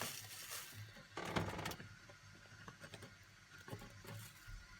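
Hot water poured from a stainless-steel kettle into a pour-over coffee dripper, in two short pours, the second and louder about a second in, with light handling knocks.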